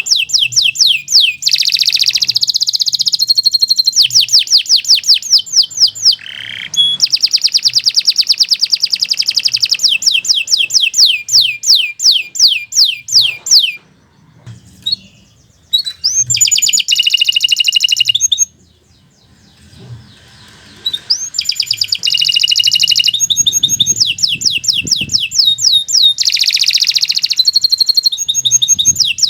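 Domestic canary singing loud, long phrases of fast repeated trilled notes, broken by two short pauses, one around the middle and one about two thirds of the way through.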